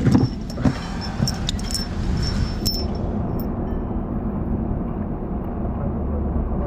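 An engine runs steadily under a low rumble, with several sharp metallic clinks of bolts and hardware over the first three seconds.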